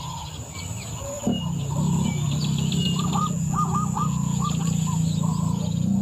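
Birds chirping in short, quick calls. About a second in, a steady low rumble sets in beneath them and stays the loudest sound.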